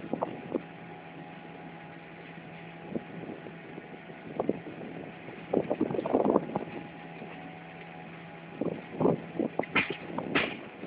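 Passenger train running, heard from the open door of the coach: a steady rumble and hum with irregular knocks and clatter, heaviest about halfway through and again near the end.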